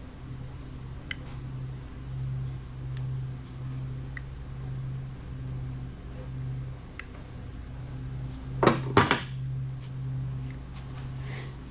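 Small metal parts being handled, with a few light clicks and a brief clinking clatter about nine seconds in, over a steady low hum.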